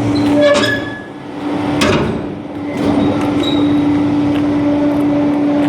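A garbage truck's hydraulic packer working, with a steady hum throughout and a few sharp metal clanks and brief squeaks from the moving packer panel.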